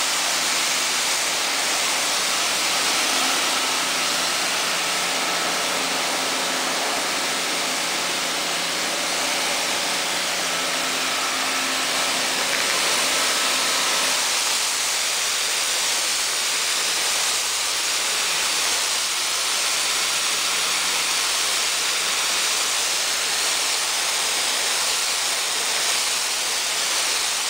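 Kärcher cleaning machine running during floor washing: a loud, steady rushing hiss, with a low motor hum underneath that drops away about halfway through.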